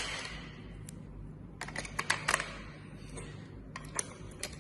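Sharp plastic clicks and clatter as batteries are fitted into the battery compartment of a toy RC plane's remote control: one click at the start, a quick cluster about two seconds in, and two more near the end.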